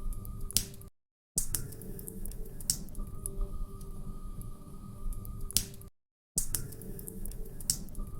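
Wood fire crackling in a fireplace: irregular sharp pops and snaps over a low steady rumble. The sound cuts out to silence twice, for about half a second each time.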